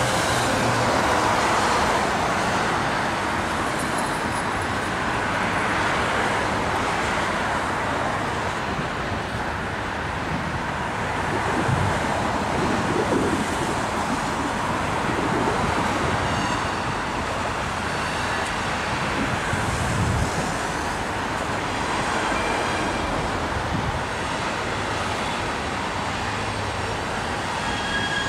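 Steady rolling rumble of loaded coal hopper cars passing on the rails, mixed with road traffic noise. Faint high-pitched wheel squeals come in during the second half.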